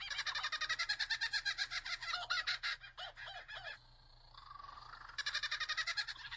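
A kookaburra's laughing call: fast, repeated chattering notes that break off for about a second in the middle, where a lower falling note is heard, then start up again.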